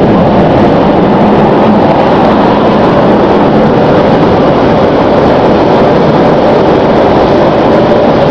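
Automatic car wash running around the car: a loud, steady rushing noise.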